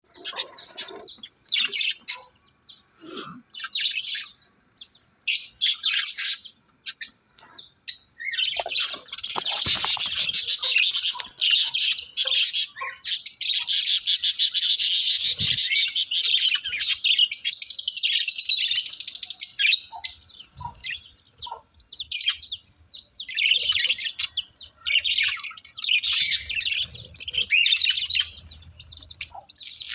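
Budgerigars chirping and warbling: quick high chirps at first, then a dense, unbroken warble for about ten seconds in the middle, breaking back into shorter bursts of chatter toward the end.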